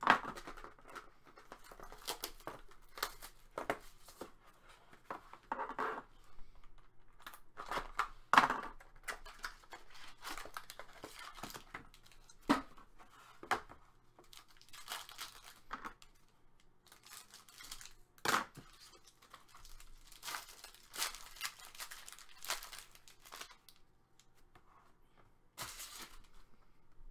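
Hockey card pack wrappers being torn open and crinkled by hand, in irregular bursts of tearing and rustling.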